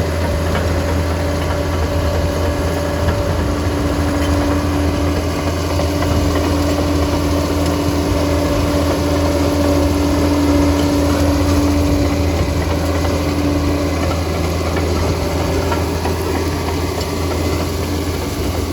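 Liebherr 746 crawler dozer's diesel engine running steadily, with a low drone and a steady mid-pitched whine that grows stronger a few seconds in and fades again near the end.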